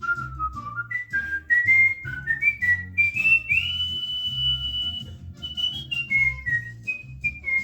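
Cockatiel whistling a tune: a run of short notes stepping up and down, then one long high note held for about a second and a half, and more short falling notes near the end. A low pulsing background sound, like a music bass line, runs underneath.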